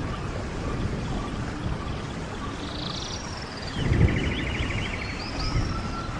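Running stream water with a steady rush and a louder gurgling surge about four seconds in, while several small songbirds sing over it with high trills, short falling notes and a quick rattling trill, then a thin held whistle near the end.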